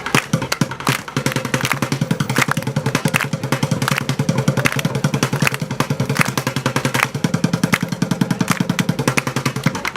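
An engine running with a rapid, even low pulse, with scattered sharp clicks over it.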